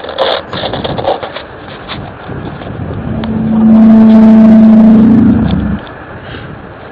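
A loud, steady, horn-like low tone, of the kind posted as the mysterious 'sky trumpet' sounds. It swells in about three seconds in, holds for about two and a half seconds, rises slightly in pitch and then cuts off, over a crackling, scratchy background.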